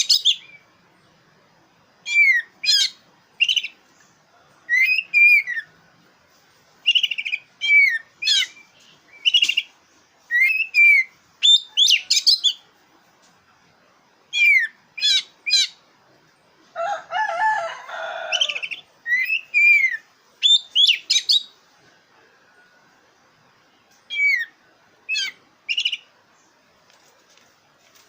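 Black-breasted oriental magpie-robin (kacer dada hitam) singing: short whistled phrases with down-slurred notes, repeated every second or two. Just past the middle comes one lower, scratchy phrase lasting about two seconds.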